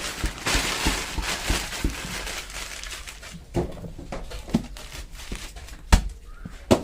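Paper and packing material rustling and crinkling as firework shell parts are handled, with scattered sharp knocks. The loudest knock comes near the end.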